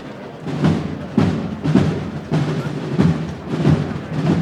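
A procession band's drum section, bass drum and snares, plays a steady walking beat of about two strokes a second with no melody over it.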